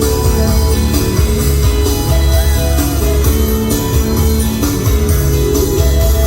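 Live band music, an instrumental passage with guitar over a heavy, steady bass and no singing.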